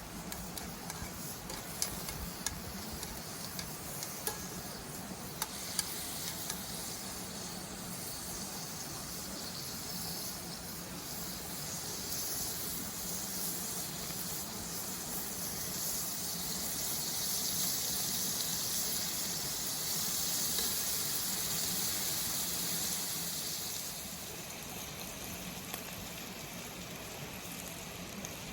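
Food sizzling in a frying pan over a campfire, with a few sharp clicks in the first several seconds. The sizzle swells louder and brighter in the middle and eases back near the end.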